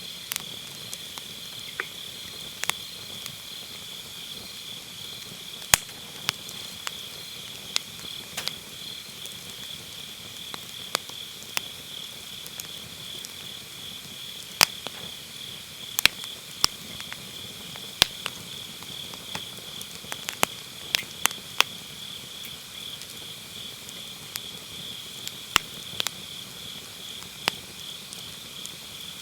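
Burning firewood crackling, with sharp pops at irregular intervals and a cluster of louder ones in the middle. Under it runs a steady, high chirring of autumn grass insects.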